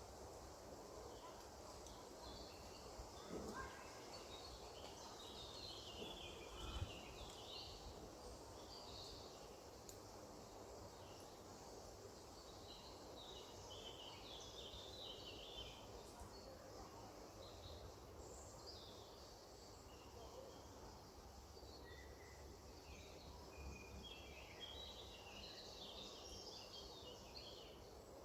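Faint birdsong outdoors: clusters of quick, high chirps from songbirds, coming and going over a low, steady background hiss, with one short knock about seven seconds in.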